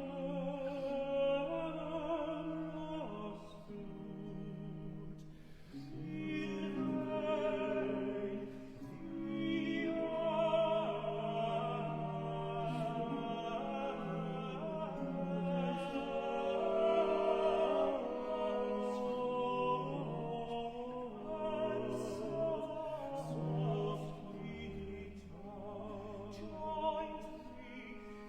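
Baroque vocal duet for countertenor and tenor, the voices singing long, wavering sustained notes over a low instrumental bass line with baroque ensemble accompaniment.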